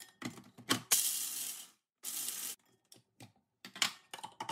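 Electric chopper with a top-mounted motor pulsed twice, briefly, crushing almonds coarsely, between clicks and knocks of the plastic jar and motor head being handled.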